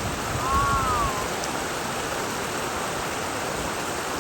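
Creek water rushing steadily. Less than a second in there is a single short whistled note that rises and falls, and some low rumble on the microphone in the first second.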